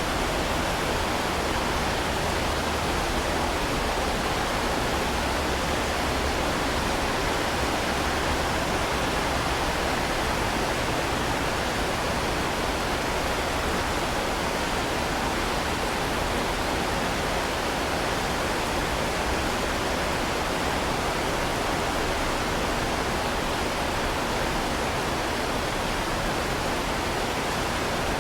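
Steady heavy rain falling, an even hiss with no separate drops, thunder or changes in level.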